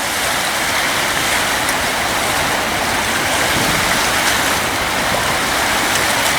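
Flood-swollen river water pouring over a spillway dam: a steady, even rushing noise with no breaks.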